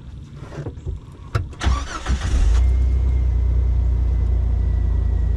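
A Jeep's engine cranking over for about a second and catching, then settling into a steady idle.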